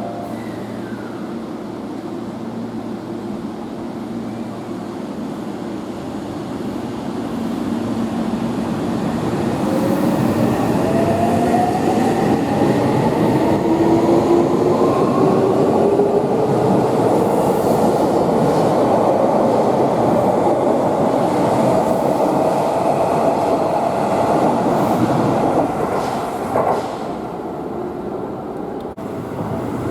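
Seibu 6000 series electric train running on the rails, with a rising motor whine as it gathers speed about a third of the way in. The wheel and rail noise grows louder, then drops off near the end.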